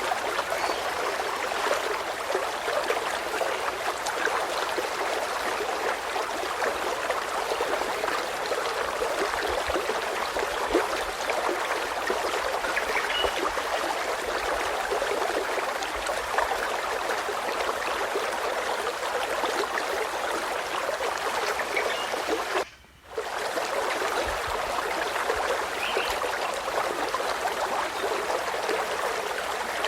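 Stream flowing steadily with a continuous babbling rush, broken by a brief drop-out about 23 seconds in. A few faint short bird chirps are heard over it.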